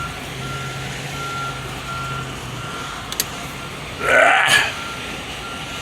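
Tractor-trailer's reversing alarm beeping steadily, about one beep every three-quarters of a second, over a low engine hum that drops away about halfway through. About four seconds in there is a short, loud voice-like burst.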